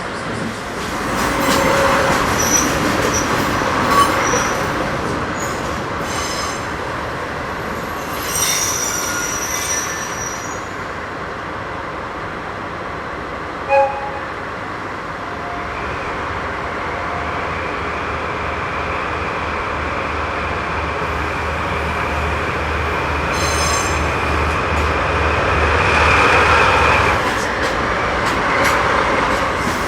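Train rolling slowly through a station. Wheels squeal in a long high tone over an even low rhythmic pulsing through the second half, with one short loud sound about 14 seconds in.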